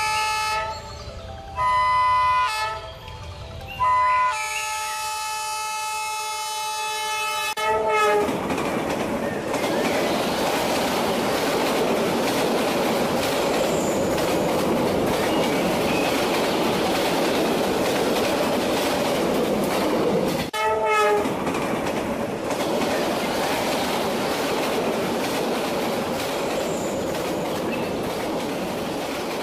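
A train horn sounds in several blasts over the first eight seconds, the last one held for about four seconds. A steady rumble of a running train follows, with one short horn toot about two-thirds of the way through.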